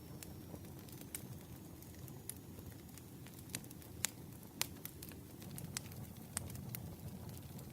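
Campfire burning, a steady low rumble with irregular sharp crackles and pops from the wood, the loudest pops about four seconds in and again half a second later.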